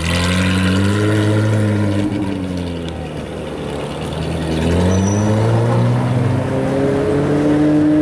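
Ferrari 458 Speciale's V8 through an aftermarket Fi exhaust, running at low revs: a steady low engine note that sags about three seconds in, then picks up again and holds.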